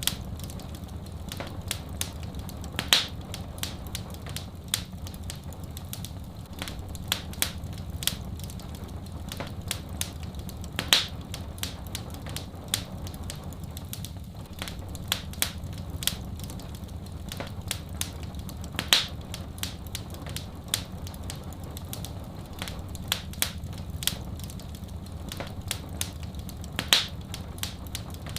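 Wood fire in a fireplace crackling, with constant small snaps over a steady low rumble and a louder pop about every eight seconds.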